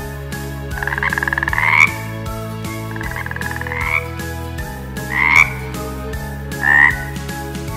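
Frog calling: two long, rapidly pulsed croaking trills that rise in pitch at the end, then two short croaks near the end.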